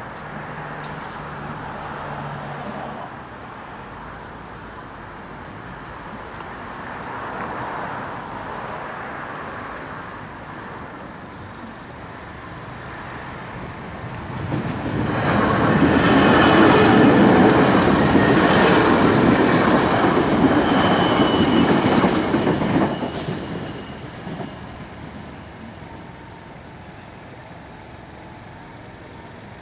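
A train passes close by. Its wheels and motors build up over a few seconds and are loud for about eight seconds with a high whine, then fade away.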